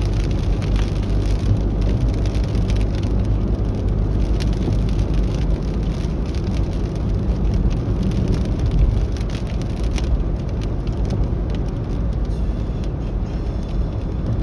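Steady road and engine rumble inside a moving car's cabin on a rainy day, with a hiss of wet road and rain and scattered faint ticks.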